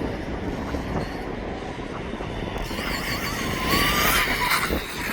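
Electric RC dirt bike running, its motor whine rising in pitch from about three seconds in as it speeds up and getting loudest near the end, over a steady rumble of wind on the microphone.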